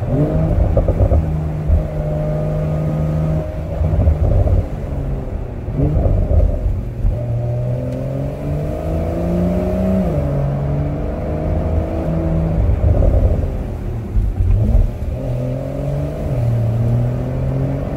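Porsche 911 (992) Cabriolet's twin-turbo flat-six engine driving on the road, its pitch climbing and then dropping at gear changes several times. Wind and road rumble come in through the open top.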